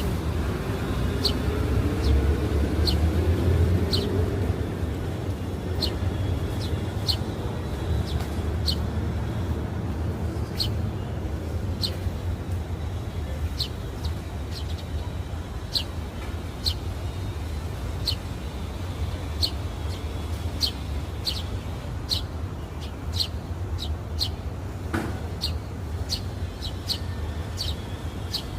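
Sparrows chirping: short, high single chirps about once a second, coming faster in the second half, over a steady low rumble.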